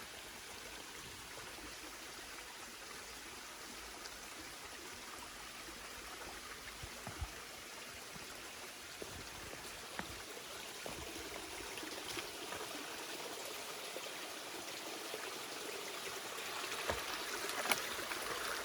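Stream water running steadily, growing a little louder over the second half, with a few light knocks here and there.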